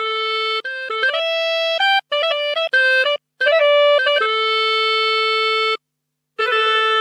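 Yamaha PSR-SX arranger keyboard playing a solo melody on one sampled instrument voice, without accompaniment: a quick run of short notes, then a long held note, a brief pause and a new note near the end.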